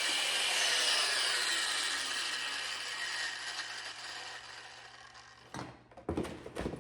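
Power grinder winding down after the trigger is released, its whine falling in pitch and fading over several seconds after a metal cut. A few short knocks near the end.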